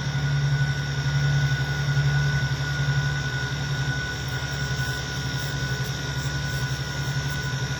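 Noise-music drone: a low hum pulsing rapidly under a steady high whine, without change.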